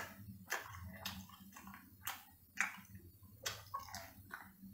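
A mouth chewing sauced sea snail meat: soft, irregular clicks and smacks, a few every second.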